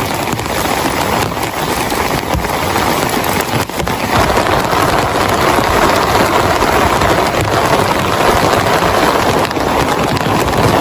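Heavy rain pouring steadily, growing louder about four seconds in.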